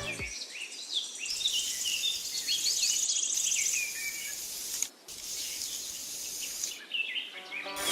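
Small birds chirping with an insect trilling steadily in a high register, with a brief break about five seconds in.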